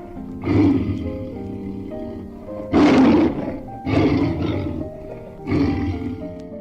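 Background music with held notes, with a lion's rough, breathy roaring calls laid over it, four times; the loudest comes about three seconds in.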